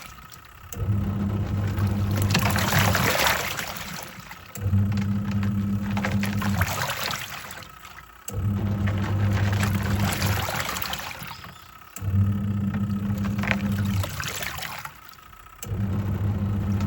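Twin-tub washing machine's wash tub agitating a load: the pulsator motor hums with water swishing, stopping for a moment about every three to four seconds as it reverses direction.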